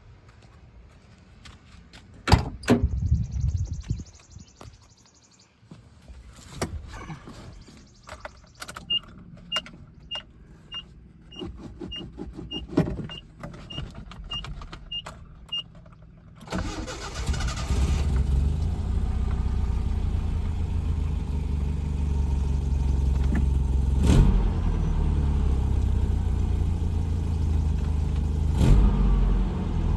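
A 1985 Nissan 720 pickup being cold-started: a loud thump and a few clunks, then a warning chime beeping about twice a second for several seconds. About halfway through, the engine starts and keeps running steadily.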